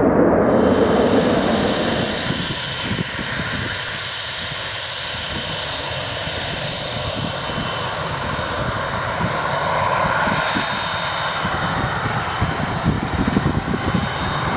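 Tornado GR4 jet engines (twin RB199 turbofans) running, a steady high whine over a rumbling roar, swelling slightly in the latter part.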